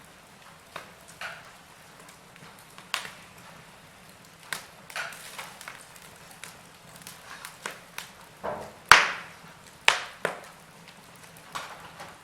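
Logs burning in a fireplace, crackling: irregular sharp pops over a faint steady hiss, the loudest pop about nine seconds in with another a second later.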